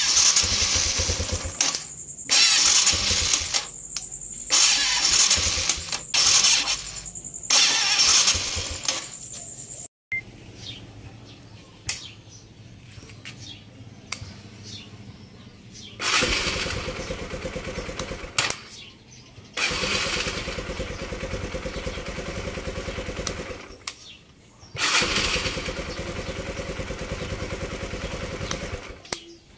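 Kawasaki KLX150 single-cylinder engine being electric-started. First the starter motor cranks in a string of short, stop-start bursts: the sluggish, delayed cranking of a starter turning at low rpm. Then, with the fault fixed, the engine is started three times, firing up on the button and running evenly for a few seconds each time before it stops.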